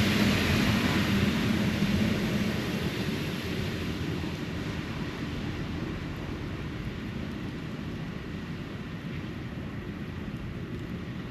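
Distant engine rumble passing and fading away over the first few seconds, leaving a steady low outdoor hiss.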